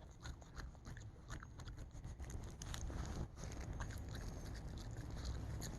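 A dog chewing on a cicada: irregular small crunches and clicks.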